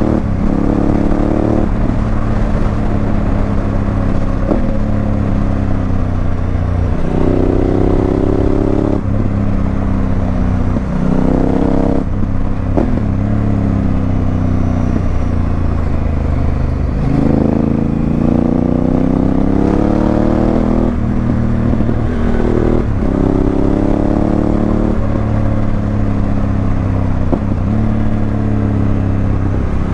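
Honda Africa Twin CRF1000L's parallel-twin engine through an aftermarket Remus exhaust, under way. The revs climb and drop again and again as it is ridden through the gears, with a longer easing off and pull back up about halfway through.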